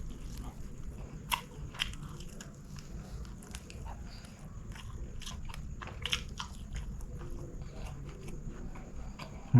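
Close-miked chewing and mouth sounds of someone eating chicken biryani, with a few sharp clicks and crunches scattered through, two of the loudest in the first two seconds.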